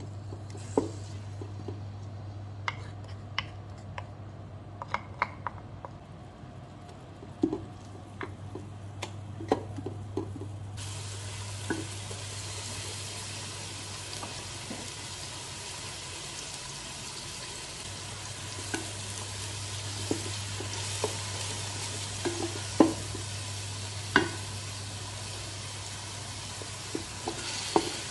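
Pounded onion and chilli frying in oil in a rice cooker's aluminium inner pot, stirred with a wooden spatula that scrapes and taps the pot in scattered clicks. The sizzle grows much louder about eleven seconds in, with sliced fish cake frying in the pan.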